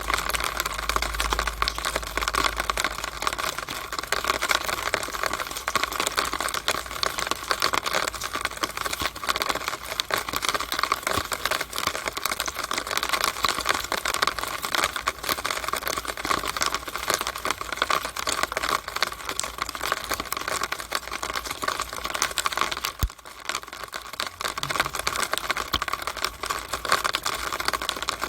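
Rainwater running and dripping inside a downspout on a rainy day: a dense, irregular patter of drops. It goes briefly quieter, with a single click, about 23 seconds in.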